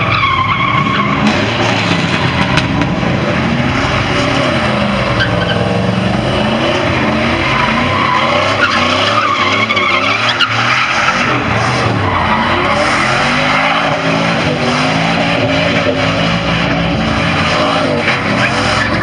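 A vehicle engine revving up and down continuously, with tires squealing and skidding, as in a burnout or donuts.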